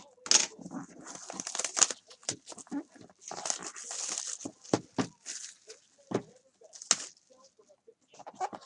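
Trading-card box packaging being handled and opened by hand: irregular crinkling and tearing of plastic wrap and cardboard, with several sharp knocks and clicks.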